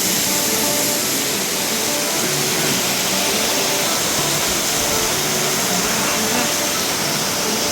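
Waterfall: the steady rush of falling water, loud and even throughout.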